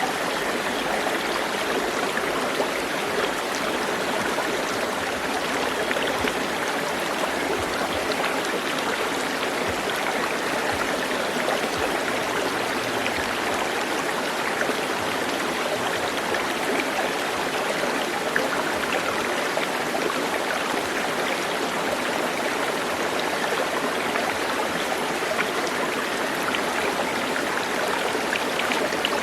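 Steady running water, like a stream flowing over rocks, with no change in level throughout.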